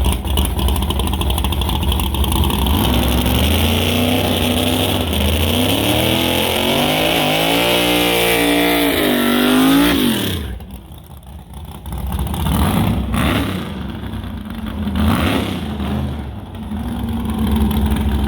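Car engine revving up in one long climb in pitch, then dropping away sharply, followed by several shorter revs.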